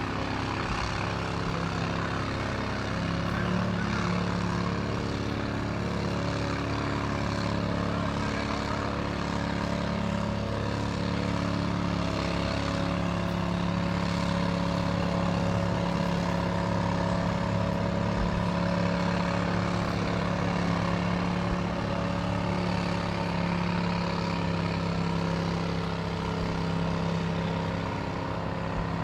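Fire engines running steadily, a constant drone with several steady low tones, as of engines driving their pumps.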